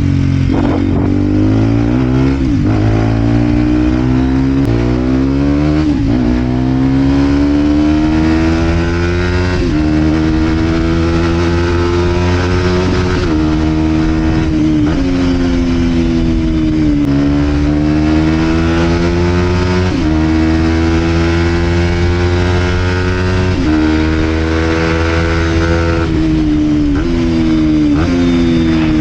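Vent Derapage 125 4T single-cylinder four-stroke motorcycle engine through a full Scalvini exhaust, accelerating through the gears. The pitch climbs, then drops sharply at each of several gear shifts, with a stretch of easing off in the middle.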